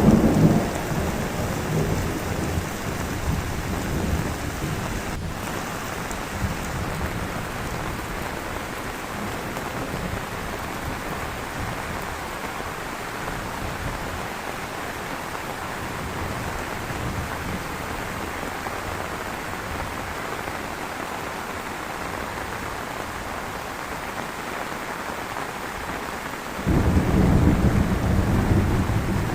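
Heavy rain falling steadily. A low rumble of thunder fades away over the first couple of seconds, and another low rumble comes in suddenly near the end.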